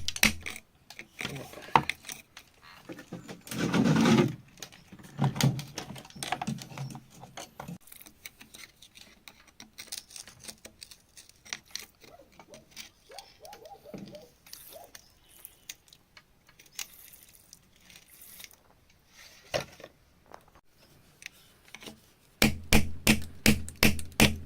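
Scraping and tapping of digging in stony soil, with small stones knocking together. A louder rasping scrape comes about four seconds in, and near the end there is a quick run of sharp taps.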